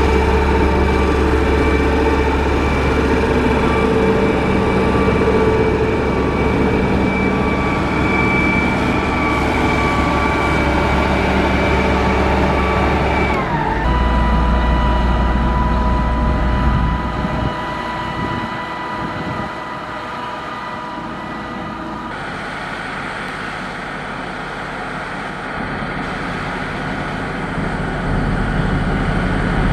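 Motor grader's heavy diesel engine running under load; its pitch falls sharply about halfway through, and the sound turns quieter for several seconds before rising again near the end.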